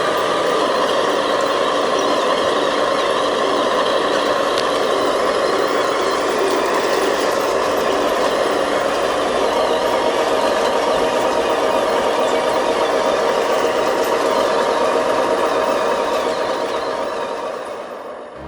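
Remote-control model construction machinery, a bulldozer and dump trucks, running with a steady engine-like mechanical sound that fades out near the end.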